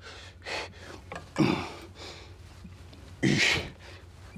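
A man's forceful exhales with a short grunt, one per rep of lateral raises, spaced about two seconds apart: the effort of pushing through a tiring set. The two loudest come about a second and a half in and just past three seconds.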